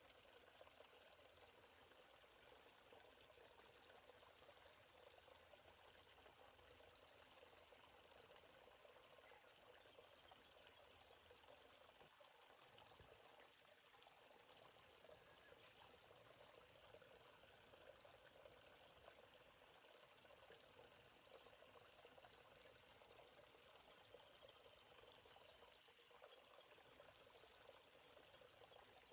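A steady, faint chorus of high-pitched insects, continuous and unbroken, over a soft murmur of flowing stream water.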